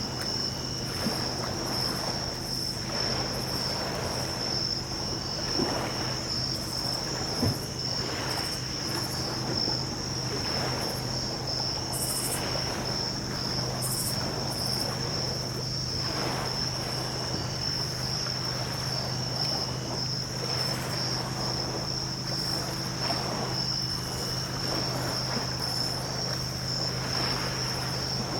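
Night insects, crickets or katydids, chirring in a steady high-pitched chorus over small waves washing softly on the beach. A low steady hum runs underneath.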